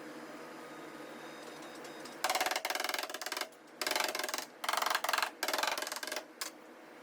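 A power tool run in four short bursts, each a fast rattling buzz of rapid pulses, starting about two seconds in.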